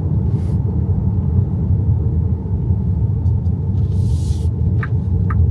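Steady low road and tyre rumble inside the cabin of an XPENG G6 electric SUV on the move. A brief hiss comes about four seconds in, and near the end a regular ticking starts, about two ticks a second, like a turn-signal indicator.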